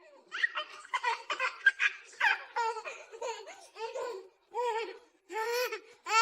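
A young child laughing: a run of short, high-pitched giggles and squeals, about two to three a second, with rising squeals near the end.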